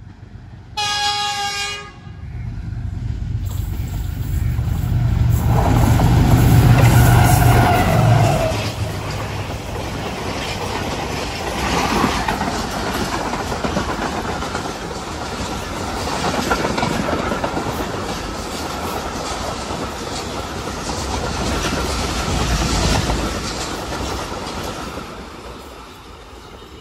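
Express passenger train hauled by a diesel locomotive, sounding a short horn blast about a second in, then passing at speed. The locomotive's heavy engine rumble is loudest around six to eight seconds in. The coaches follow with rhythmic clickety-clack of wheels over the rails, fading near the end as the train draws away.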